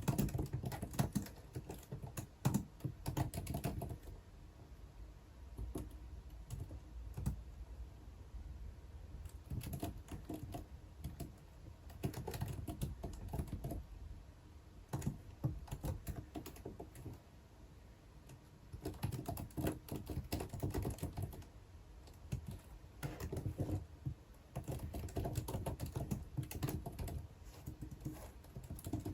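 Typing on a computer keyboard in bursts of a few seconds of quick key clicks, broken by short pauses.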